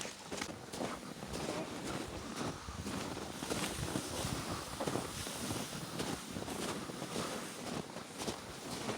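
Wind buffeting the microphone while hiking through snow, with irregular crunching footsteps.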